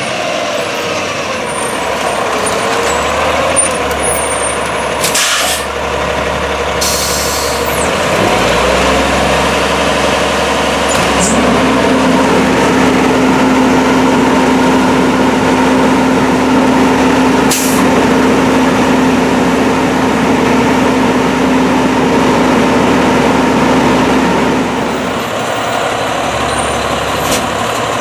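Volvo WXLL garbage truck's diesel engine revs up about eight to eleven seconds in, holds steady at high revs, and drops back a few seconds before the end. Short air hisses come a few seconds in, and there is a sharp click midway.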